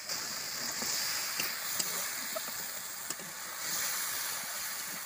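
Onions and ground masala frying in hot oil in a metal kadai, sizzling steadily, while a metal spatula stirs them with a few sharp scrapes and taps against the pan.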